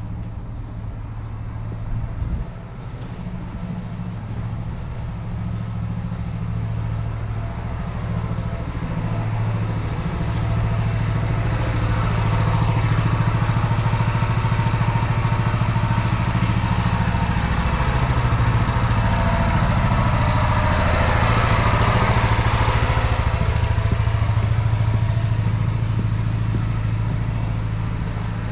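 Small petrol engine running steadily, typical of a pressure washer's engine, its pitch shifting slightly now and then. A hiss builds up through the middle and eases off again near the end.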